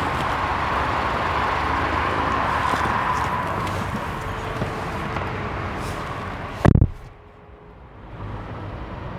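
Steady outside traffic and air noise, then a car door shuts with one heavy thud about two-thirds of the way in, after which the outside noise is muffled as heard from inside the closed cabin.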